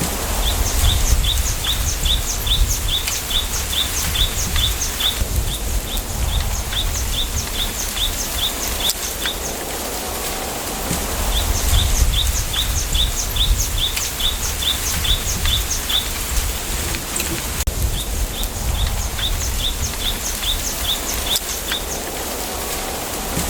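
A bird calls in runs of short, sharp repeated notes, about three a second, each run lasting several seconds with brief pauses between. Underneath is a steady outdoor hiss and a low wind rumble in the bamboo forest.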